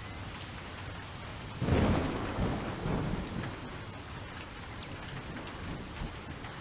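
Steady rain with a sudden clap of thunder about a second and a half in, rumbling away over the next couple of seconds.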